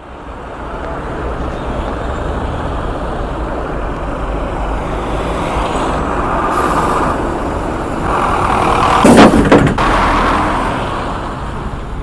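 Road vehicle driving with steady engine and road noise. About nine seconds in comes a cluster of loud, sharp impact bangs: a road crash.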